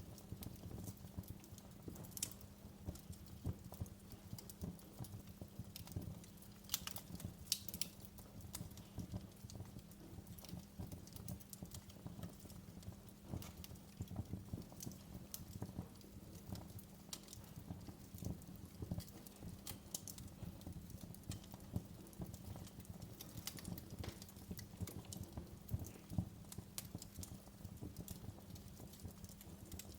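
Wood fire crackling in a fireplace: irregular sharp pops and snaps over a low, steady rumble and hum.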